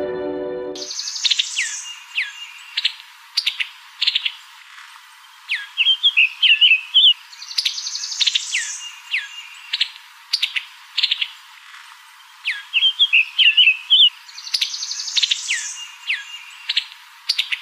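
Bird song: a phrase of high chirps, quick downward-sweeping notes and a short trill that repeats about every seven seconds, as a looped track. Electronic music fades out in the first second.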